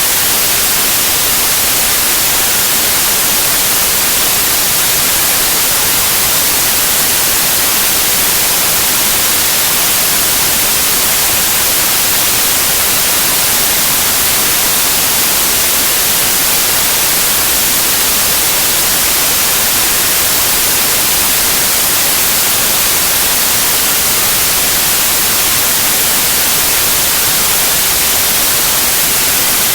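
Steady white noise: an even, unchanging hiss, strongest in the high frequencies, with no pitch or rhythm.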